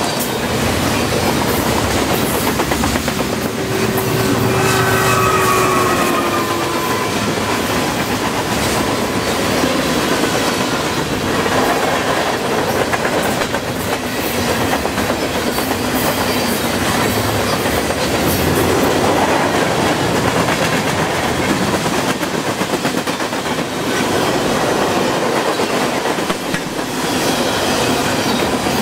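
A freight train's cars, lumber-laden centerbeam flatcars and boxcars, rolling past close by: a steady rumble of steel wheels on the rails with clickety-clack over the rail joints. A brief squeal, slightly falling in pitch, comes a few seconds in.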